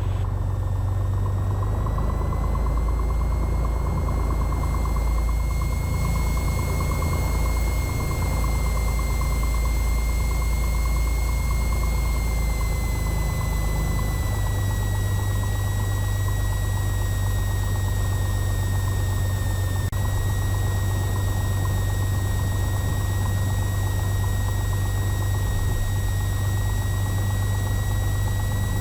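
Cessna 182T's six-cylinder piston engine and propeller running at low taxi power, a steady low drone. A thin, steady whine sits above the drone, drifting slightly in pitch.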